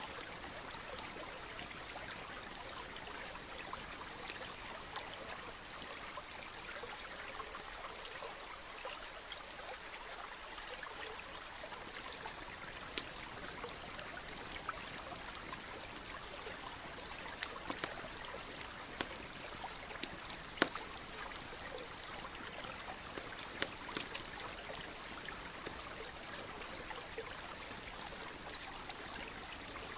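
Campfire crackling with sharp wood pops over the steady rush of a running stream; the pops come more often and louder in the middle.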